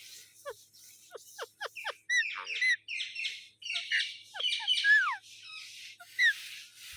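Pet rose-ringed (Indian ringneck) parakeet calling. A quick run of short falling notes leads into squawky chirps and downward-sliding calls, with one longer falling squawk a little after the middle.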